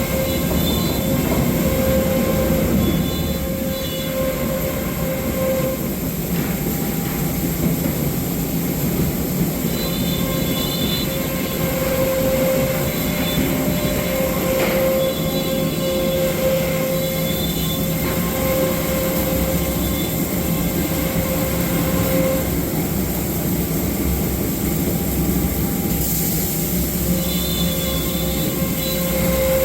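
SCM Accord 25 FX-M CNC machining center running: a steady mechanical din with a whine that keeps coming and going.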